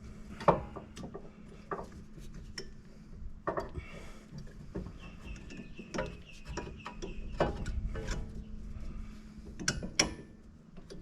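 Irregular metallic clicks and knocks of brake pads and their hardware being handled and fitted into a rear disc-brake caliper bracket, over a steady low hum.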